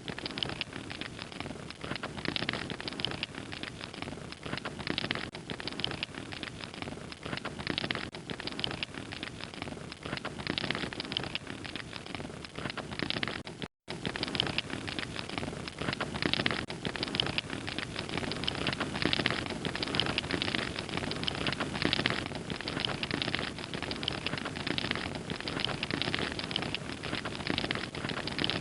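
Wood fire crackling steadily, with dense small pops and snaps; the sound cuts out for an instant about halfway through.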